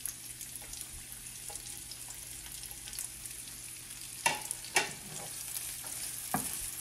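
Chopped garlic and ginger sizzling in hot oil in a pan, stirred with a wooden spatula. A few sharp knocks come a little past the middle and near the end.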